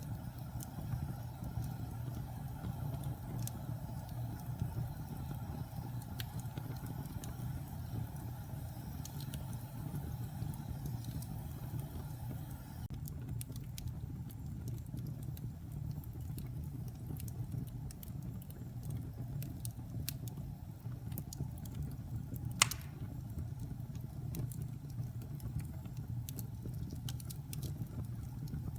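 Wood fire burning in a fireplace: a steady low rumble of flame under scattered small crackles, with one sharp, loud pop about two-thirds of the way through.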